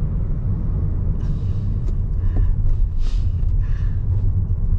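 Steady low road and tyre rumble inside the cabin of a Toyota Innova Hycross on the move, with a few faint brief hissy swells over it.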